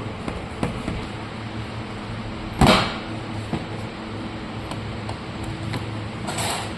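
Scattered clicks and knocks from something being handled, with one loud knock about two and a half seconds in and a brief scrape near the end, over a steady low hum.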